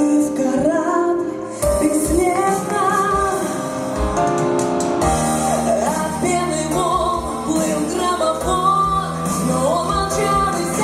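A song with a woman singing over instrumental accompaniment; a beat comes in about two seconds in.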